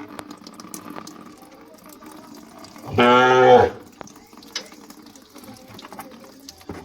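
A single loud, pitched call lasting under a second, about three seconds in, its pitch dipping slightly as it ends. Faint hiss and scattered ticks sit underneath it.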